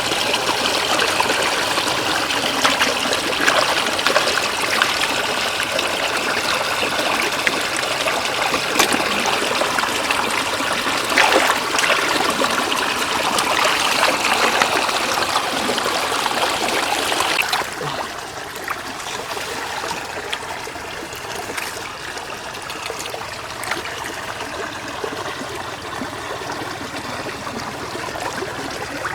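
Shallow floodwater running and trickling over a road, a steady rush of water with a few small splashes. It drops suddenly quieter about two-thirds of the way through.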